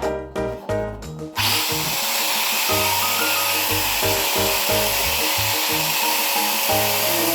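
A power tool cutting pipe starts suddenly about a second and a half in and runs steadily as a loud hiss, over background music.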